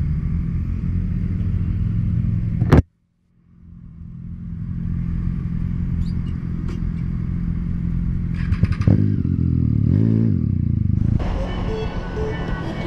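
Motor vehicle engine and road noise on a motorcycle ride. About three seconds in, a sharp click and a brief total dropout, then the noise fades back in.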